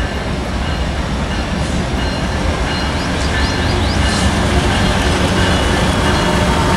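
A train running by: a loud, steady rumble of locomotives and rolling wheels on rail, with thin high squeals over it and a few short squeaks about three seconds in.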